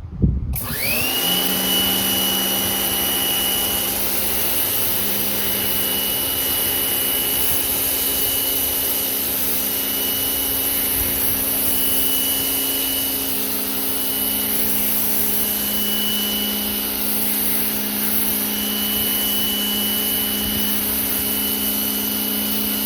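Portland electric pressure washer's motor and pump starting up with a quick rising whine, then running steadily at full pressure with a high hiss of water spray from the wand.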